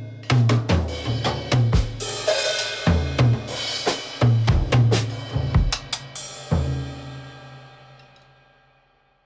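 Drum kit playing a quick run of bass drum and snare hits with cymbals, ending on a final crash a little past halfway that rings and fades away.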